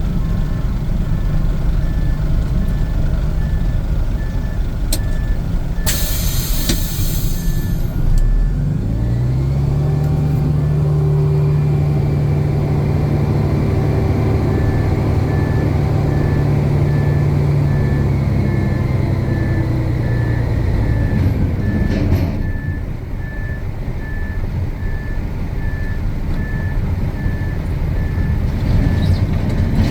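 Heavy diesel truck engines running in a concrete yard, with a truck's backup alarm beeping about twice a second. About six seconds in, a short sharp hiss of air is heard. Then a diesel engine revs up, holds its higher speed for about ten seconds and drops back to idle.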